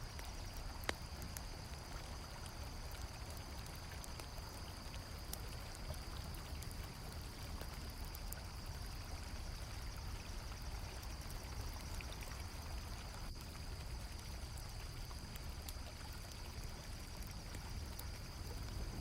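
River water flowing steadily, with a constant high trill of crickets and scattered crackles from a campfire, one sharper pop about a second in.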